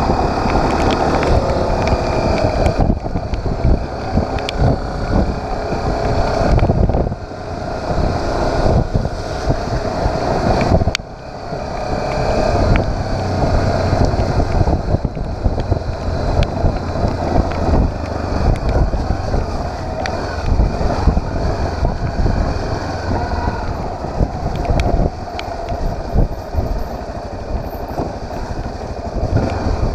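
Motorcycle engine running under way with wind buffeting the microphone, easing off briefly twice in the first third.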